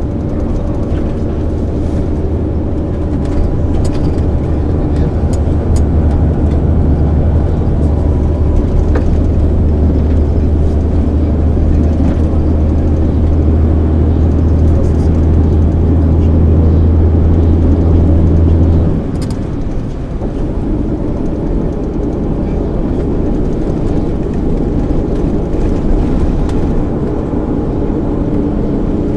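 MAN ÜL 353 intercity bus's diesel engine running under load, heard from on board: a steady low drone that builds slightly, then drops off suddenly about two-thirds of the way through, after which the bus runs on with a lighter, rumbling sound.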